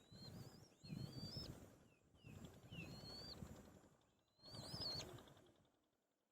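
White-tailed kite chicks giving four high, wavering squeals while squabbling for food in the nest, with low rustling and flapping noise alongside each call.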